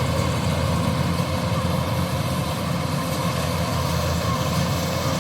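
Combine harvester running steadily: a low engine drone with a faint steady whine above it.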